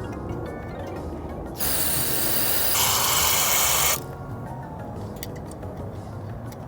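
Aerosol cleaner sprayed in one continuous burst of about two and a half seconds into a BMW N54 VANOS solenoid to clean it. The hiss starts about a second and a half in and changes tone partway through.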